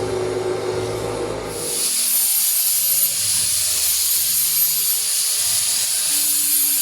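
A bottle sterilising machine hums with a steady tone, then a little under two seconds in it changes abruptly to a loud, steady, high-pitched hiss of steam.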